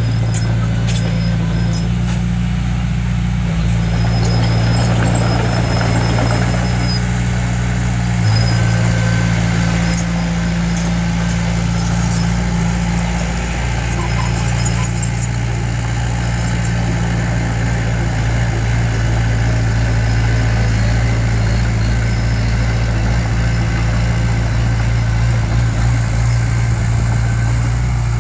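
Diesel engine of heavy earthmoving equipment running steadily at constant speed with a low, even drone.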